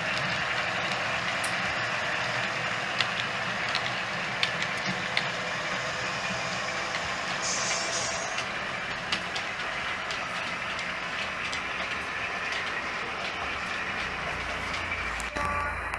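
OO gauge model train running on the layout, its DCC sound locomotive playing over a steady mechanical running noise, with a few light clicks.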